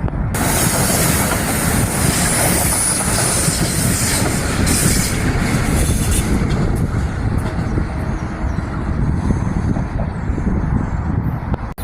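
Metro-North train passing close by: a steady heavy rumble of wheels on rail with a high hiss strongest in the first half. Later come scattered clicks of wheels over rail joints, and the sound cuts off abruptly near the end.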